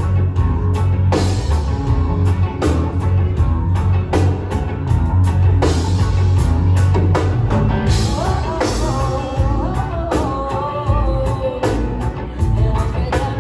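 A live band playing a rock song: a steady drum beat over heavy bass and guitar, with singing.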